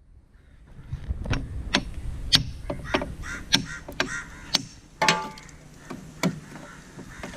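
Irregular metal clicks and knocks with short squeaks, from hands working on the tractor's controls and linkage.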